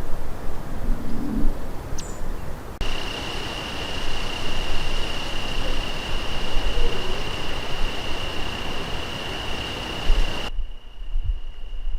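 Outdoor night field recording: low rumble and hiss with a steady high-pitched tone through most of it and one short high chirp about two seconds in. The background hiss changes abruptly twice, as if the recording was cut or processed.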